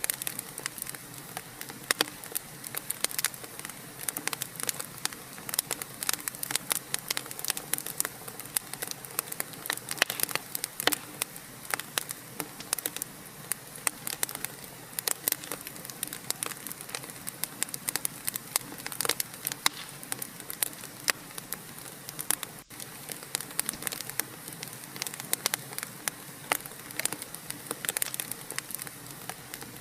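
Wood fire crackling, with frequent sharp pops and snaps over a steady hiss. There is a momentary dropout about two-thirds of the way through.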